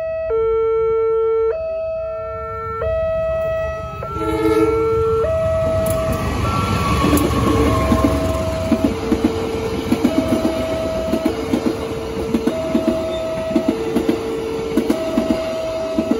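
Level-crossing warning alarm sounding two alternating tones, each held about a second and a quarter. About four seconds in, a train horn sounds briefly and a diesel-hauled passenger train rumbles past, its wheels clacking over the rail joints in a steady rhythm.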